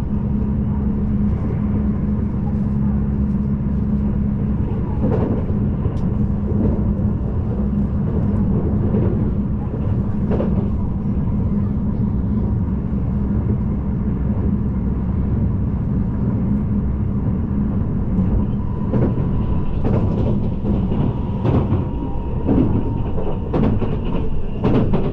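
Passenger train running, heard from on board: a steady low rumble with a constant hum, and irregular short clicks and knocks that come more often in the last few seconds, when a faint high whine also joins in.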